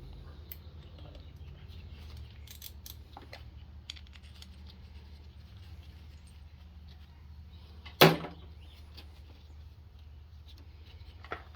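Metal hand tools such as sockets and wrenches clinking and rattling in scattered light clicks, with one loud sharp clank about eight seconds in, over a steady low hum.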